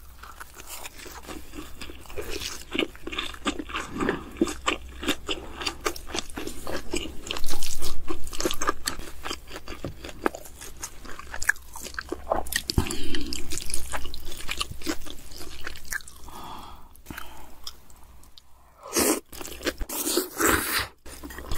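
Close-miked eating: crunching and chewing of fried dumplings and kimchi, full of small wet mouth clicks and crackles, with a loud crunch about a third of the way in. Near the end come a few loud bursts as black bean noodles are slurped from a spoon.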